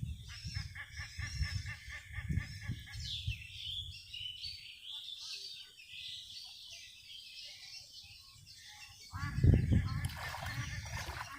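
Chickens and other birds calling: a quick run of repeated notes in the first few seconds, then higher chirps. A louder burst of low rumbling noise comes in about nine seconds in.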